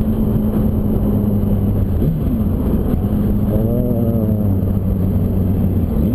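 Motorcycle engines running steadily in traffic, a low even drone with a brief wavering tone about halfway through.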